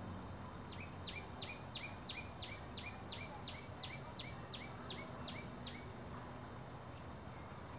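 A bird calling a rapid run of about fifteen sharp notes, each sliding down in pitch, about three a second, stopping a little past the middle. A steady low hum runs underneath.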